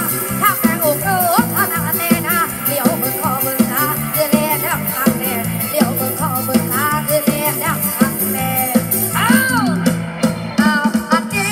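A song with a singing voice, bass and a steady beat with shaker-like percussion, played loud through J-Bin 18 and BV15 loudspeaker cabinets. The bass thins out briefly about ten seconds in.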